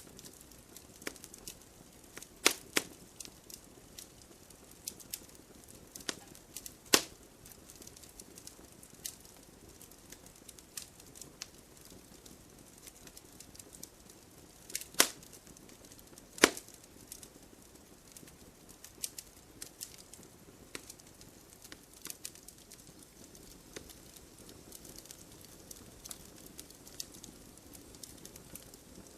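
Wood fire in a fireplace crackling: irregular sharp pops and snaps from the burning logs over a soft steady hiss, with four louder pops standing out.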